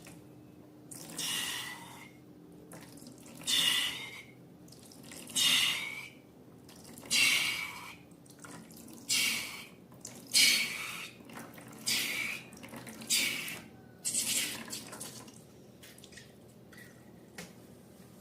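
Sticky, wet slime squelching as it is squeezed and worked by hand, about nine separate squishes roughly every two seconds. The squishes stop about 15 seconds in, leaving only a few faint clicks.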